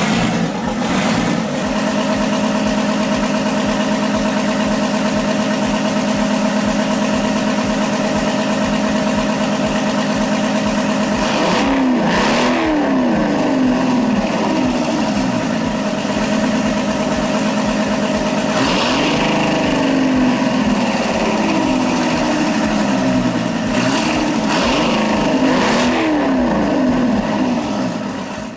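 1980 Asia diesel power tiller engine running at a steady speed, then revved up and let back down several times from about twelve seconds in, its pitch swooping up and falling each time.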